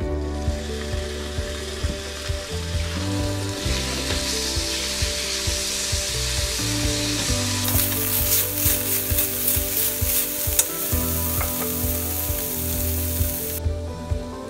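Thinly sliced beef sizzling in hot oil in a frying pan as it is stir-fried with chopsticks. The sizzle grows louder and brighter about halfway through, with sharp spattering crackles, then falls back near the end. Background music plays underneath.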